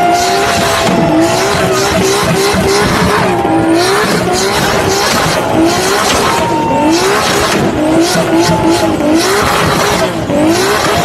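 Toyota Supra's turbocharged JZ inline-six engine, loud, revving up and falling back over and over in quick, uneven sweeps.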